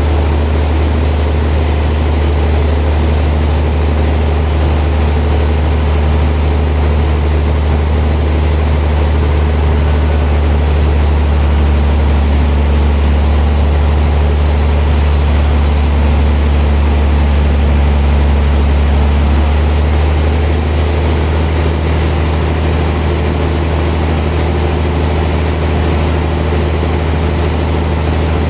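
Sawmill machinery running steadily with a loud, constant low hum and a broad mechanical noise.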